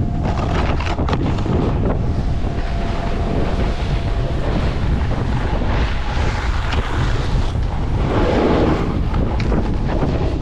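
Wind buffeting the microphone: a steady, heavy rumbling noise.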